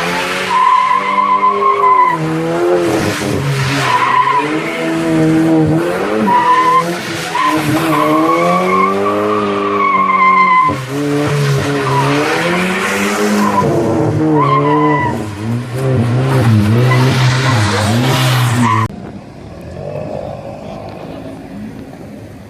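Modified car's engine revving hard over and over with tyres squealing as it spins its wheels, cutting off suddenly about 19 seconds in and leaving a quieter engine sound.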